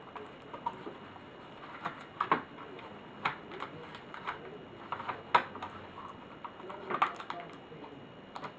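Irregular light clicks and taps of plastic laptop parts and small tools being handled, about a dozen, loudest a little past halfway and again about seven seconds in, over a steady hiss.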